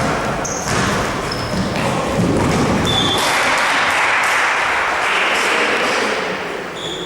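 Basketball game in a gym: the ball bouncing, several short high sneaker squeaks on the court, and players' voices echoing in the hall, with a swell of noisier shouting in the middle.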